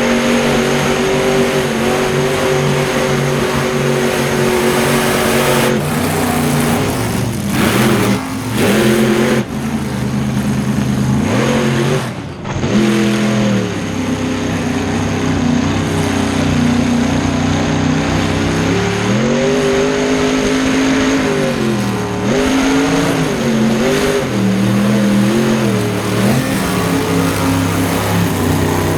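Mega truck engine running hard at high revs. It holds steady for the first few seconds, drops briefly several times around eight and twelve seconds in, and then revs up and down repeatedly in the second half as the throttle is worked.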